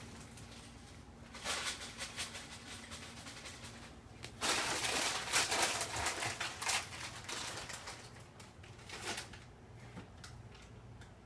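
Cardboard box rustling and scraping in crackly bursts as a cat moves about with its head in it, loudest from about four and a half to seven seconds in.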